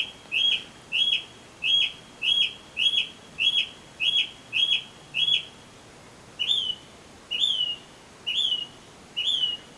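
Northern mockingbird singing: one short, bright phrase repeated about ten times, a little under twice a second. After a brief pause it switches to a different phrase that slurs downward, repeated four times about once a second.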